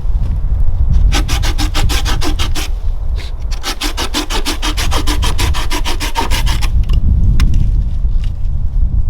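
Fast, evenly spaced rasping strokes of a hand tool working wood, about six a second, in two runs with a short pause between them.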